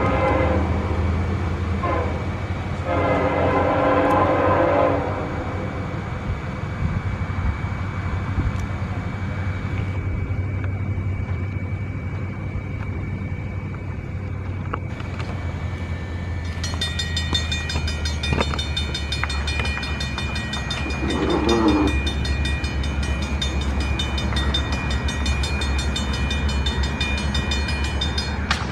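A diesel freight locomotive running with a steady low engine rumble, sounding its horn in blasts near the start and again about three-quarters of the way through. A rapid, steady high ringing joins a little past halfway.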